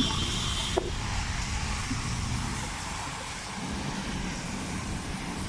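Steady road traffic noise from passing cars, with one short knock just under a second in.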